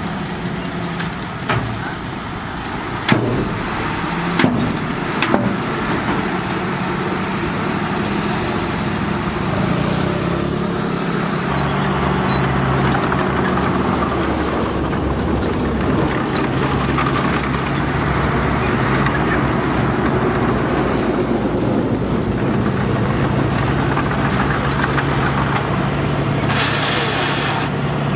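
Heavy diesel engine of earthmoving machinery running steadily, getting louder and slightly higher in pitch about eleven seconds in as it works harder. Three sharp metallic clanks come between about three and five seconds in.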